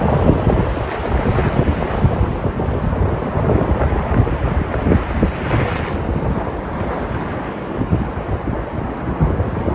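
Sea surf, waves breaking and washing in a continuous rush, with a brighter surge of a breaking wave about halfway through. Wind buffets the microphone throughout.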